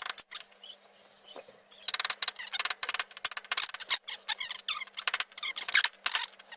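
Socket ratchet clicking in short runs of rapid ticks, one run per back-swing, as a bolt is turned.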